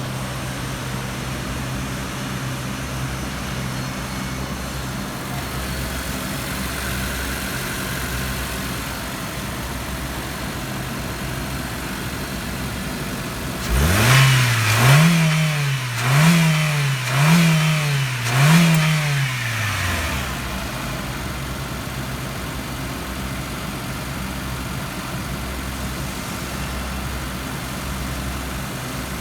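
Honda L13A 1.3-litre four-cylinder engine idling steadily, then revved four times in quick succession about halfway through, each rev rising and falling back, before it returns to a steady idle.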